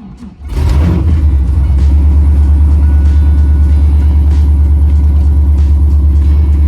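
Camaro's rebuilt LS1 5.7-litre V8, with an LS6 cam and headers, cranks and catches about half a second in, then settles into a loud, steady idle with an even pulse.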